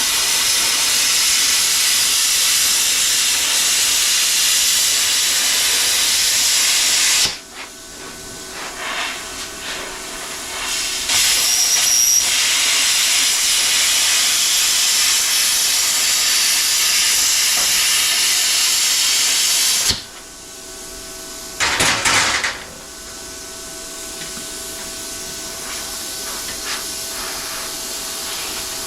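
Loud, steady hiss of rushing air from a shop tool. It cuts off suddenly about seven seconds in, comes back around eleven seconds, and stops suddenly again at about twenty seconds. A short clatter follows near twenty-two seconds.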